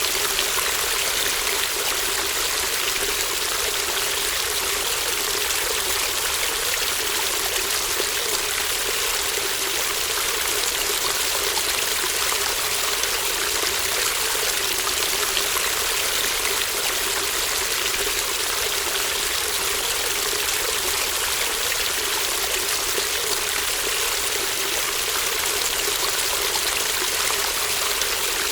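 Babbling brook: shallow stream water flowing and trickling steadily, an even, unbroken rush with no pauses.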